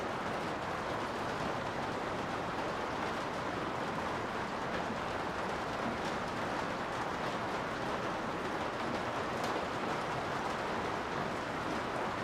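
Steady rain heard from inside a garage: an even hiss with a few faint ticks of single drops.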